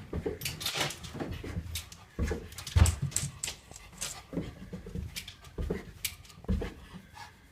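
Pet dogs moving about close by: scattered quick clicks and soft thumps, with one louder knock about three seconds in.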